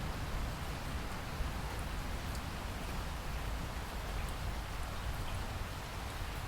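Steady rain falling, an even hiss of drops with a low rumble beneath and occasional faint drop ticks.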